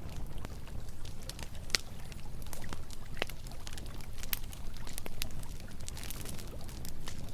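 Campfire crackling with irregular sharp pops, over a steady rush of flowing river water.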